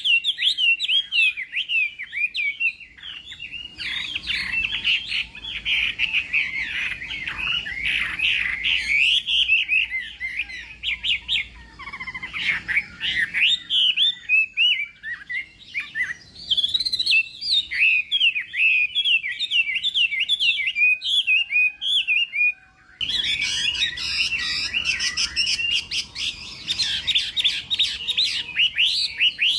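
Chinese hwamei singing a long, fast, varied song of quick rising and falling whistled notes, with a brief pause about three-quarters of the way through.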